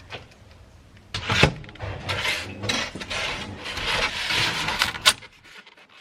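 Rigid foam insulation board rubbing and scraping as it is worked into place, with a sharp knock about a second and a half in and another near the end.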